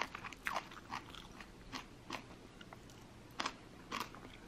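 A person chewing dandelion-leaf kimchi: soft, irregular crunching clicks, with a few louder bites a little before the end.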